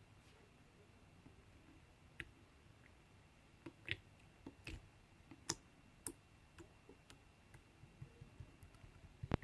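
Slime being handled and pressed, giving faint, irregular little clicks and pops, with a sharper click near the end.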